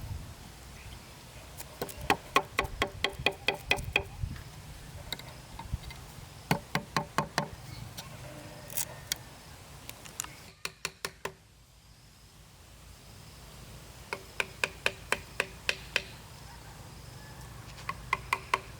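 Bursts of rapid knocking on hollow bamboo, each strike ringing with a woody pitch. The strikes come about four or five a second in runs of a few seconds, with short pauses between the runs.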